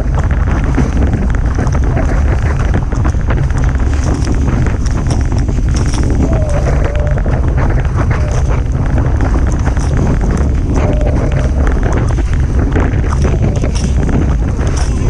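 Strong wind buffeting the microphone in a heavy, steady low rumble, with water rushing and spraying past a Hobie Tiger catamaran sailing fast in about 30 knots of wind.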